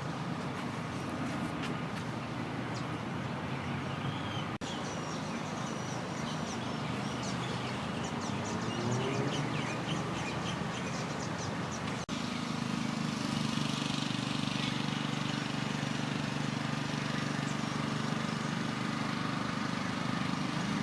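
Outdoor ambience: birds chirping in quick short calls over a steady low hum, which gets louder after a brief break about twelve seconds in.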